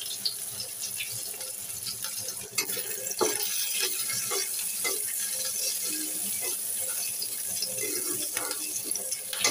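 Chopped onion and green chillies sizzling in hot oil in a kadai, growing louder about three seconds in as a spatula starts stirring and scraping them around the pan in repeated strokes.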